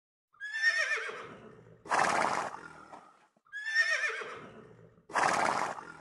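A horse whinnying twice, about three seconds apart. Each is a high, quavering cry that ends in a harsh, breathy burst.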